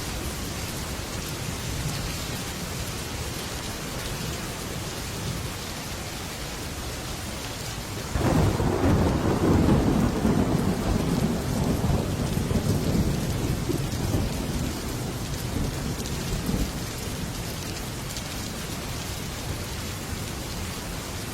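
Heavy rain drumming steadily on a metal roof, with a clap of thunder breaking about eight seconds in and rumbling for several seconds before fading back under the rain.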